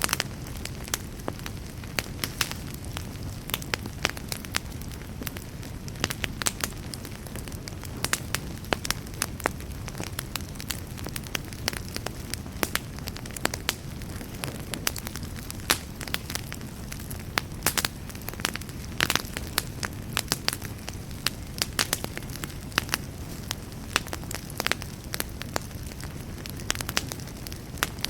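Fireplace fire crackling and popping: frequent irregular sharp snaps over a steady low rumble of the flames.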